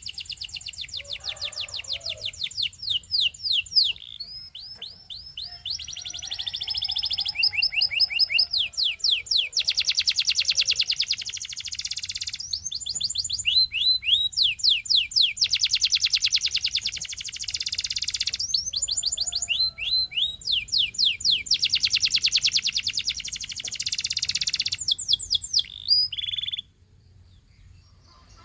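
Canary singing a long song of fast trills and rolls: high notes repeated very rapidly, changing to a new trill or a series of sweeping notes every second or two. The song stops shortly before the end.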